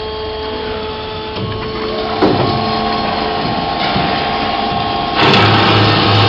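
PEGAS PROFI 400 metal-cutting band saw running its automatic cutting cycle: a steady machine hum with several held tones, a knock about two seconds in, and about five seconds in the sound steps up suddenly, louder and harsher.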